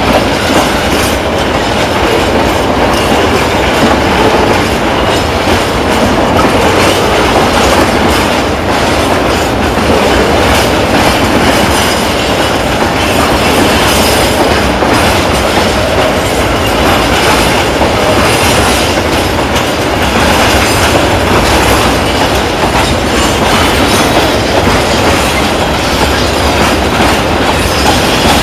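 Train running close by: a loud, steady rumble of steel wheels on the rails, with rail-joint clatter.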